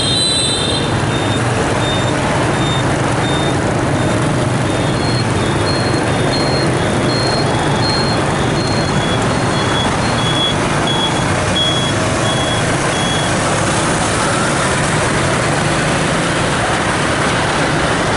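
Steady rumble and hiss of a running vehicle, with a string of short high electronic beeps about one and a half a second. A second, slightly higher string of beeps joins midway, and the beeping stops about two-thirds of the way through.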